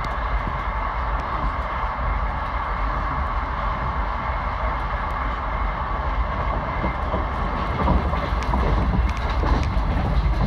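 Local passenger train running at speed, heard from inside the carriage: a steady rumble and hum of wheels on the rails. It grows a little louder about eight seconds in, with a few sharp clicks.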